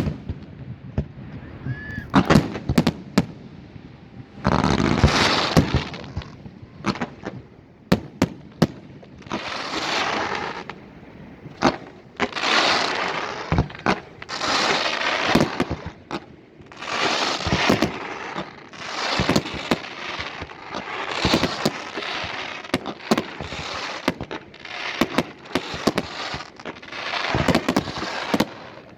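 Fireworks display: sharp bangs of bursting shells, many in quick succession, with recurring swells of hissing noise about a second long every second or two.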